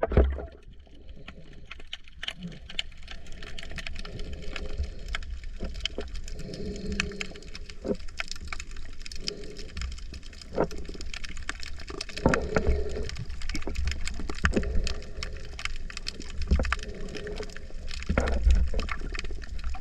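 Underwater sound picked up while snorkelling over a reef: many scattered crackling clicks over a steady low rumble of moving water.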